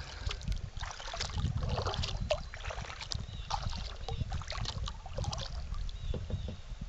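Kayak paddling: irregular splashes and drips of water from the paddle strokes, over a steady low rumble.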